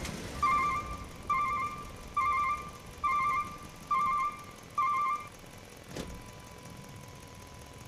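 Six short electronic beeps, each a rapid warbling pulse, repeating evenly a little under once a second, followed by a single sharp click.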